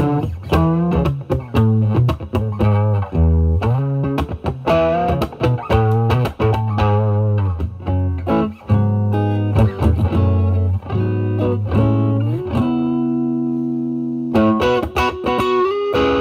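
Overdriven electric guitar: a Stratocaster played through a Vertex Steel String Clean Drive pedal at full gain into the drive channel of a Marshall Valvestate amp. It plays quick picked lead lines with string bends, and a chord held and left to ring about four fifths of the way in, followed by a few more notes.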